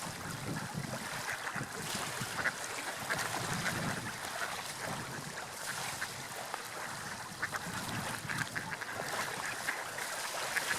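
Gulls calling repeatedly in short cries over a steady wash of sea waves and wind.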